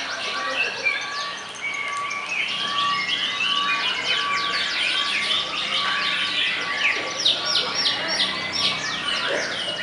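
Canary song: a dense, fast stream of chirps and trills, with a run of loud, sharp repeated notes near the end. A thin steady tone is held underneath through the first part.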